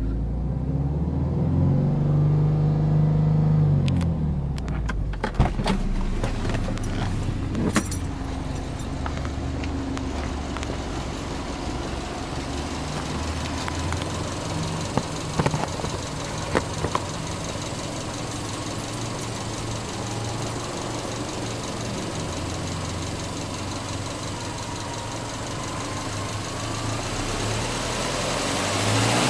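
Subaru Impreza WRX STI's turbocharged flat-four engine idling steadily. A few sharp clicks and knocks come about four to eight seconds in and again around the middle.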